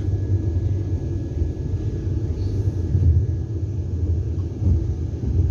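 Steady low rumble of the Vande Bharat Express electric trainset running along the track, heard inside the passenger coach.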